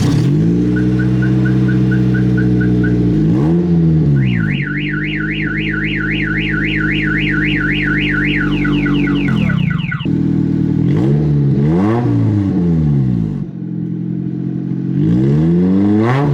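1991 Acura Integra's four-cylinder engine running loud with the exhaust removed, revved in short blips several times. A car alarm sounds over it: a quick run of beeps, then a fast up-and-down whooping siren for about six seconds.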